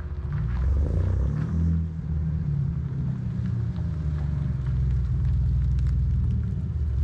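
2007 Jeep Wrangler JK's 3.8-litre V6 running through an aftermarket exhaust with long-tube headers and no catalytic converters or resonators: a steady low exhaust rumble that swells about a second in.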